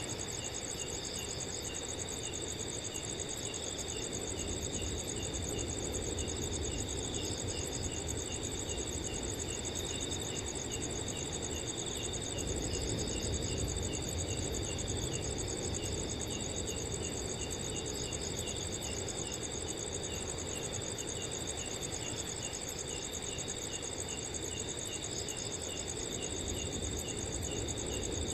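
Many crickets chirping at once at different pitches: a continuous high, pulsing trill, a regular chirp about two or three times a second, and now and then short bursts of quick pulses. Under them is an even low rush of wind.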